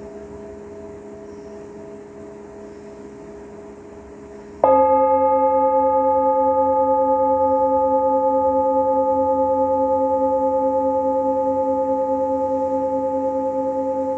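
A singing bowl struck once almost five seconds in, ringing on with a slow, even wobble and fading gradually, over the dying ring of an earlier strike.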